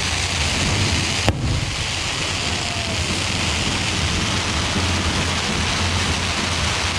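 Fireworks firing in a steady, dense hissing rush, with one sharp bang a little over a second in.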